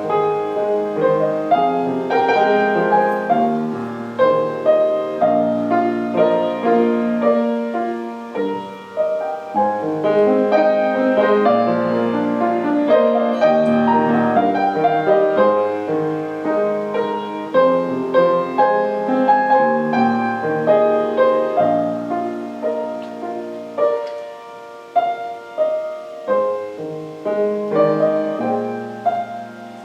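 Solo piano playing a slow piece of chords and melody, the notes ringing on and overlapping.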